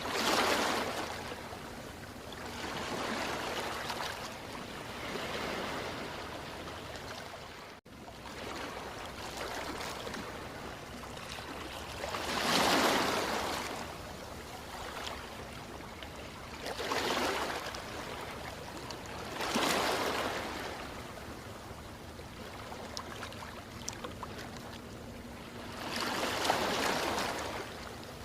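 Ocean waves breaking and washing in, a steady hiss of surf with several separate surges, the biggest about halfway through. The sound cuts out for an instant about eight seconds in.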